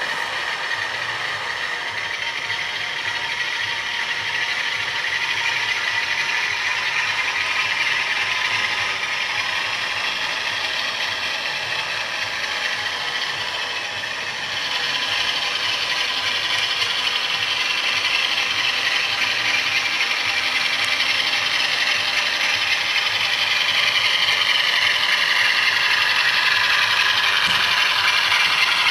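A model Class 47 diesel locomotive running on its layout track: the TTS sound decoder's diesel engine sound from its small on-board speaker, mixed with the rattling, clicking mechanical noise of the model's drive and wheels. About halfway through, the sound gets louder and busier.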